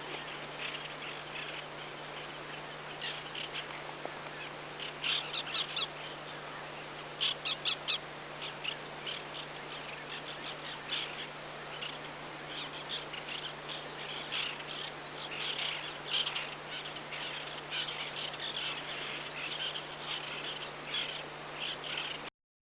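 White-winged black terns calling: short notes repeated in quick runs, with louder groups of about four notes around five and seven seconds in. The sound cuts off abruptly just before the end.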